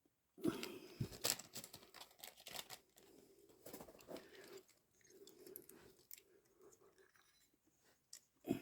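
Hands handling small motorcycle clutch parts during reassembly: irregular clicks, taps and rustling, loudest about a second in and again near the end.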